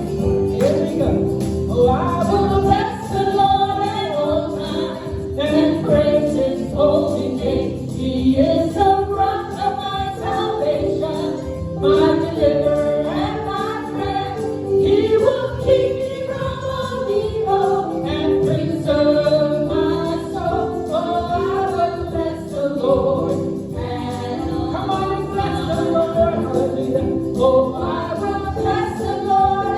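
Gospel music: voices singing over a steady band accompaniment, with a tambourine jingling along.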